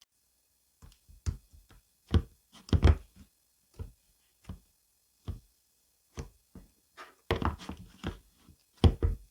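Irregular short knocks and taps, a dozen or so, with louder clustered thuds about a third of the way in and again near the end, like objects being handled and set down.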